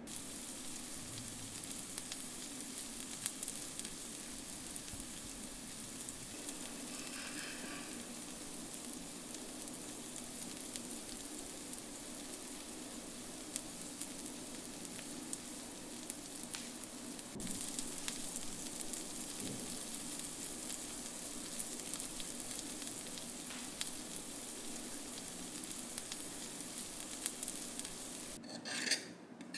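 Steady hissing noise with fine crackling, shifting slightly about seventeen seconds in, followed near the end by a few short scraping strokes.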